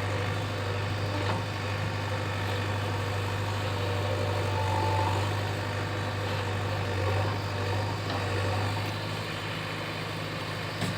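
JCB 3DX backhoe loader's diesel engine running steadily with a low, even hum.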